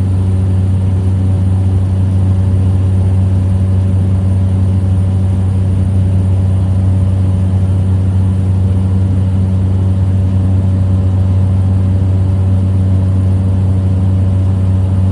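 Small plane's engine and propeller droning steadily in cruise, heard from inside the cabin: one constant low hum with no change in pitch.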